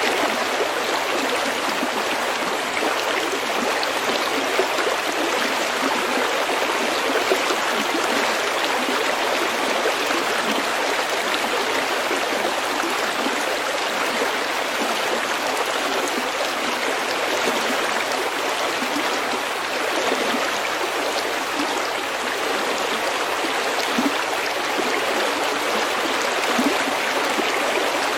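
Small snowmelt stream flowing over pebbles, a steady babbling rush of water with a few brief louder splashes.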